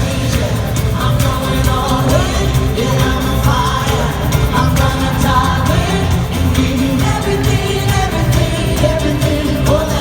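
Live worship band playing with sung vocals over a steady drum beat, loud and continuous.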